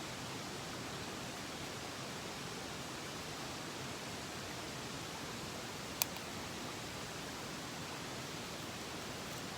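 Steady rushing of a mountain stream, with one sharp click about six seconds in.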